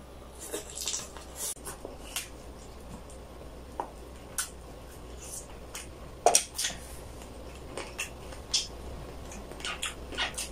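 Close-miked mouth sounds of eating roasted chicken: wet chewing and lip smacks, heard as a string of short clicks and smacks, the loudest about six seconds in.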